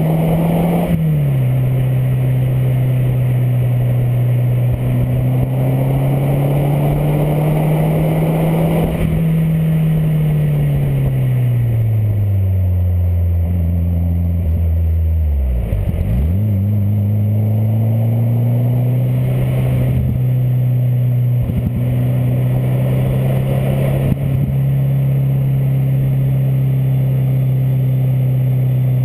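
Peugeot 205 1.9's four-cylinder engine running through an Inoxcar aftermarket stainless exhaust. The note holds steady, sinks over several seconds about a third of the way in, dips sharply around the middle, then climbs back and holds steady.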